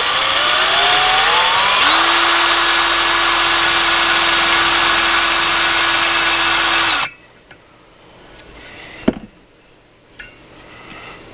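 Electric drill spinning up with a rising whine, then running steadily while drilling an initial port hole into a two-stroke motorcycle cylinder. It stops suddenly about seven seconds in, and a single sharp click follows a couple of seconds later.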